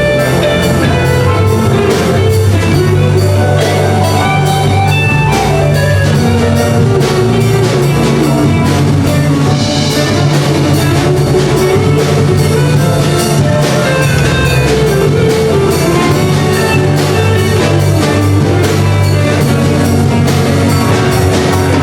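Band music with a drum kit keeping a steady beat under bass and guitar.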